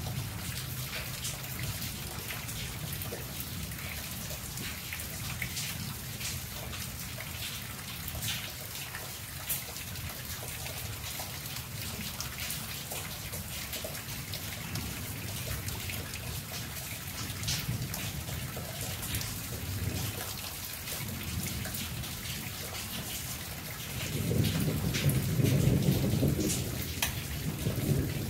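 Steady monsoon rain falling on foliage and wet ground, with many separate drops ticking close by. A low rumble runs underneath and swells louder for a few seconds near the end.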